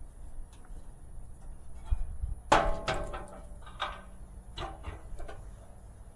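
A sharp metallic clank that rings briefly about two and a half seconds in, followed by several lighter knocks and clicks as metal tools and parts are handled during an oil change.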